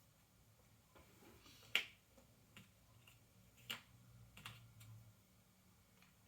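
Cardboard pieces of a Ravensburger 300-piece jigsaw puzzle being handled and pressed into place: two sharp clicks, one about two seconds in and another near four seconds, with lighter taps and soft rustling between.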